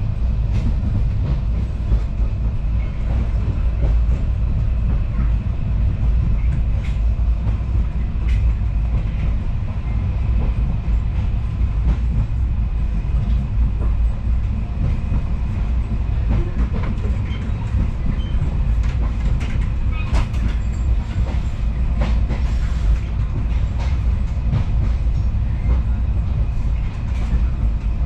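Passenger train running along a station platform, heard from inside the coach: a steady low rumble of wheels on rails with occasional clicks from rail joints.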